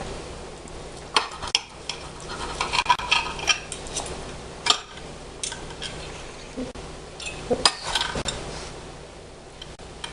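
Cutlery clinking and scraping against a dish while a baked breaded chicken breast is cut in half, in short irregular clicks and scrapes.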